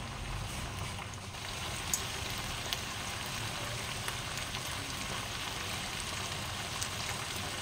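Mushrooms and ginkgo nuts frying in a stainless-steel wok, a steady sizzle with a few faint ticks.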